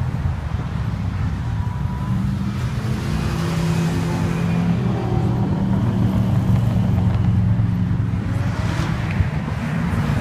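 Classic car engines rumbling steadily, with music mixed in.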